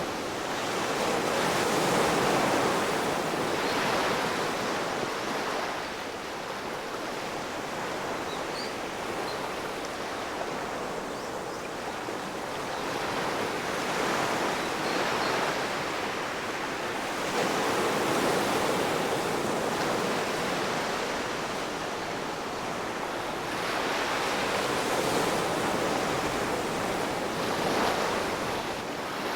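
Ocean waves breaking and washing on the shore, a continuous surf hiss that swells and eases as successive waves come in, with several louder wave crashes spread through the stretch.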